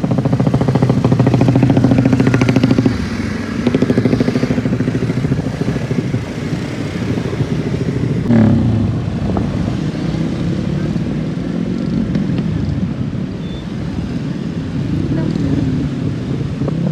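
200cc motocross bike engines running and revving, the engine note dropping about three seconds in and picking up again near the middle.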